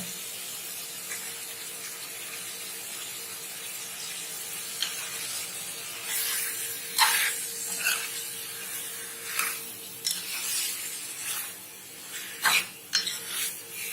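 Marinated chicken pieces sizzling in hot oil and ghee in a pan. From about five seconds in, a spoon stirs and scrapes against the pan in short strokes, mixing in the pepper powder.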